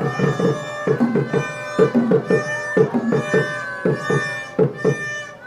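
Band music: a quick, steady drum beat under long held notes from wind instruments.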